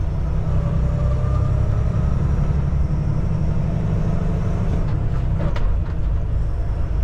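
Kenworth T680 semi truck's diesel engine running under way in traffic, a steady low drone heard from inside the cab, with a faint whine early on and a brief rattle about five and a half seconds in.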